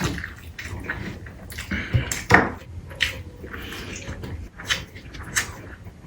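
Close-up eating sounds: irregular wet chewing clicks and lip smacks, with the occasional clink of a dish or cutlery, the loudest smack a little past two seconds in.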